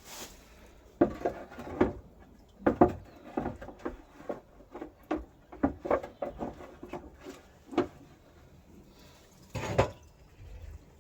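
Irregular knocks and clinks of metal engine parts and tools being handled and set down, about a dozen in quick succession, then a single louder knock near the end.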